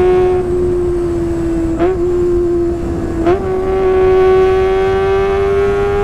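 2020 Kawasaki ZX-25R four-cylinder engine with a Sportisi Motorsport SRX aftermarket exhaust, running at high revs with a steady, high-pitched exhaust note. The note breaks off briefly twice, then climbs slowly in pitch near the end.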